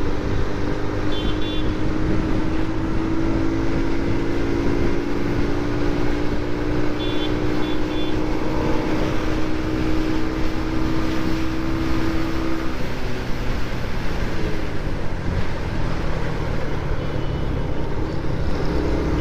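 Motorcycle riding along a road: a steady engine note with heavy wind rumble on the camera microphone. The engine tone drops out about twelve seconds in, leaving mostly road and wind noise.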